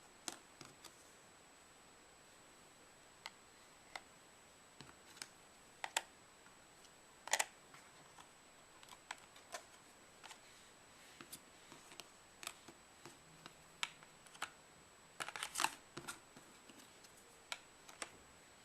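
Small magnetic toy pieces being handled and clicked onto a board: irregular light clicks and taps, with a quick run of clicks about three-quarters of the way through. A faint steady high-pitched whine runs underneath.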